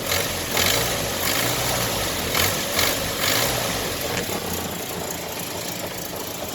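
1961 Land Rover Series II's 2.25-litre petrol four-cylinder engine running, its speed wavering up and down in the first few seconds before settling to a steadier run. It carries a weird noise that the owner fears may be a rod knock.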